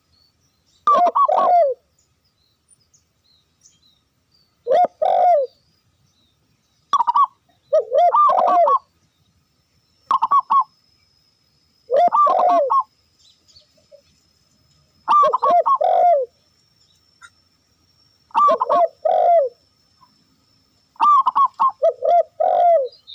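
Zebra dove (perkutut) cooing. It gives a short phrase of quick, rippling coo notes every two to three seconds.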